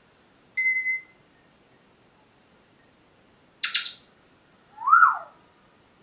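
Pet parrot calling three times: a short steady whistle, a harsh squawk about three seconds later, and then a whistle that rises and falls.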